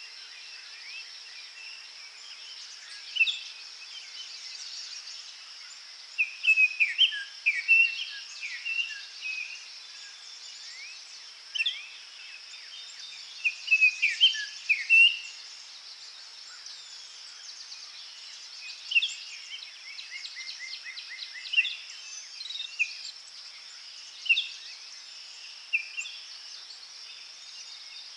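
Several songbirds singing and chirping in short, scattered phrases, one giving a quick run of evenly spaced notes about two-thirds of the way through, over a steady high-pitched hum.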